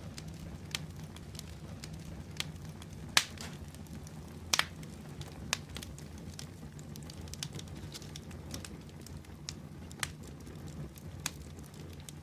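Fire in a fireplace crackling: irregular sharp pops and snaps over a steady low rumble of the flames, with the loudest pops about three and four and a half seconds in.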